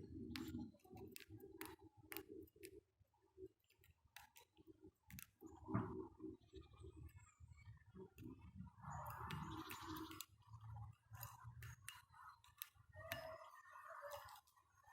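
Small birds such as tits pecking at peanuts near the microphone: irregular sharp taps and clicks over a low rumble, with a soft rustling burst near the middle.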